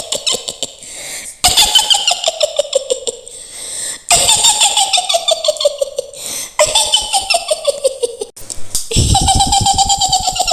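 Mak Lampir's witch cackle: a woman's shrill, rapid laugh in runs that fall in pitch, repeated about four times.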